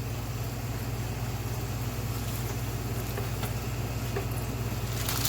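Breaded chicken frying in hot oil: a steady sizzle over a constant low hum, with a few faint crackles.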